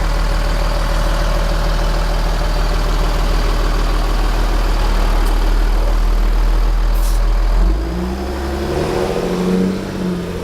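Cummins 8.3 straight-six diesel of a dump truck running steadily. There is a short click about 7 seconds in, and soon after the engine note changes, with a tone that rises and falls.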